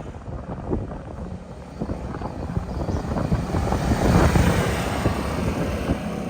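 Can-Am Maverick side-by-side's V-twin engine running through an aftermarket stainless steel slip-on sport muffler. It builds up and gets louder about two seconds in, is loudest a little past the middle, then holds steady.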